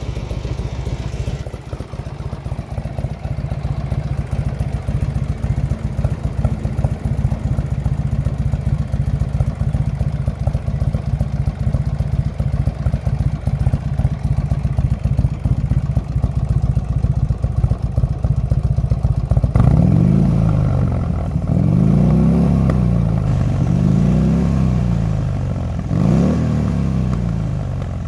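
Buell XB12S's 1203cc air-cooled V-twin idling through a JP aftermarket exhaust with a fast, even beat. About twenty seconds in it is revved about four times, the pitch rising and falling with each rev.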